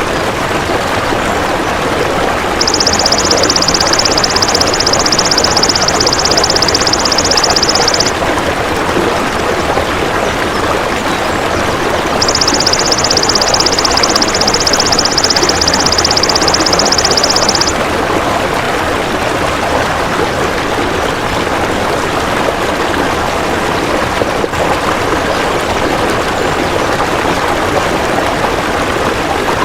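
Two long, high, rapidly pulsed buzzing trills of a golden grasshopper ('belalang emas'), each lasting about five seconds with a pause between. They sit over a steady rushing noise like running water.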